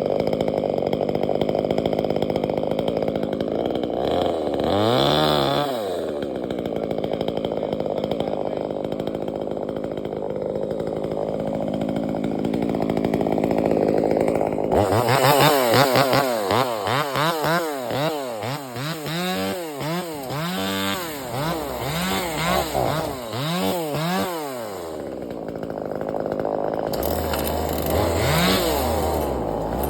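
Chainsaw engine idling. It revs up and back down once about five seconds in, is blipped up and down over and over through the middle stretch, and revs again near the end.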